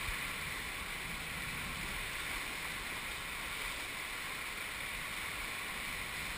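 Steady rushing of river water around a raft, an even hiss that holds at one level.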